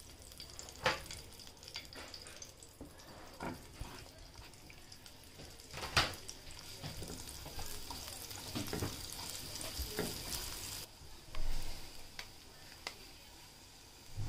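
Butter and olive oil sizzling in a nonstick frying pan as sliced onion fries and is stirred with a silicone spatula, with several scrapes and knocks of the spatula against the pan. The sizzle fades near the end.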